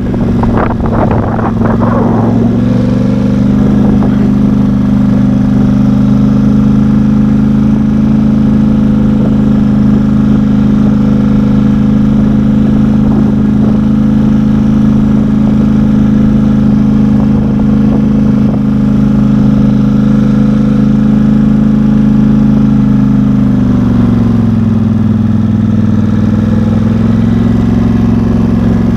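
Off-road vehicle's engine running steadily under way, its partly straight-piped exhaust loud; engine speed drops to a lower steady note about 24 seconds in, with a few rattles in the first couple of seconds.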